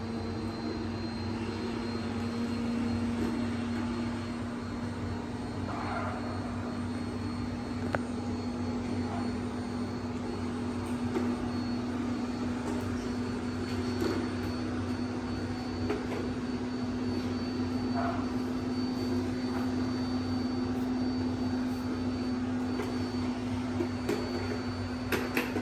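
Robot vacuum running steadily: a constant motor hum with a faint high whine over it, and a few light knocks.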